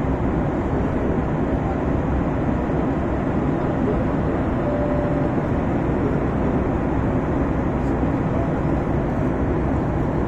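Steady low rumble of an airliner cabin in flight: engine and airflow noise, even throughout.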